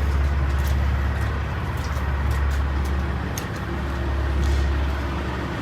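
Heavy diesel semi-truck engine idling with a steady low rumble, with a few faint scattered ticks above it.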